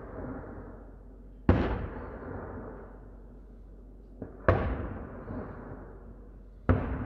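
Aerial firework shells bursting overhead: three loud booms about two and a half seconds apart, with a smaller pop just before the second, each trailing off in a long rolling echo.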